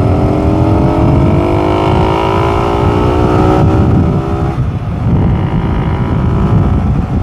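Yamaha motorcycle engine accelerating at speed, its note rising slowly and steadily for about four and a half seconds, then dropping away as the throttle eases. Heavy wind rumble on the microphone runs underneath.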